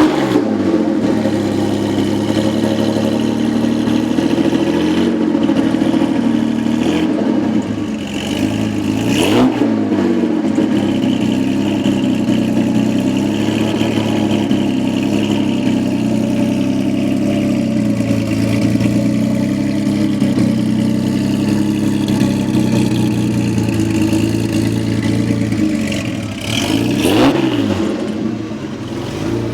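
Rebuilt, competition-prepared classic car engine running at a loud idle, blipped up in revs and back down twice: about nine seconds in and again near the end.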